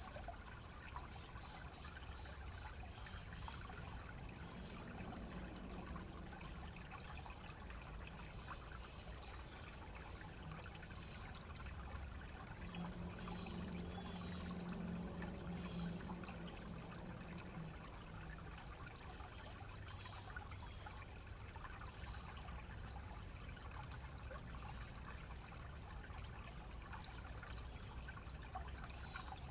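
Small stream running with a steady, faint trickling. A low hum swells up and fades away again in the middle.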